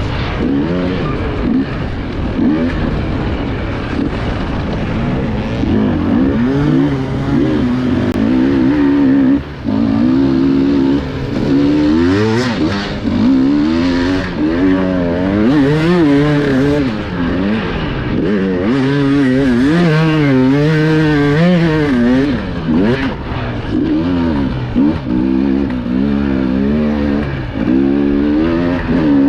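Onboard sound of an enduro motorcycle engine revving up and down continually as the throttle is worked over rough terrain, with a brief cut in the engine note about nine and a half seconds in.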